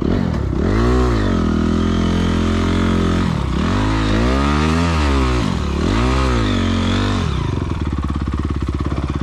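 Honda CRF250R motocross bike's four-stroke single-cylinder engine, just started, revved up and down several times and then settling to a steady idle near the end.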